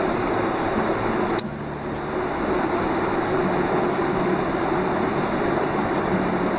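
Mountain stream water rushing over rocks in a steady wash, with an abrupt cut about a second and a half in.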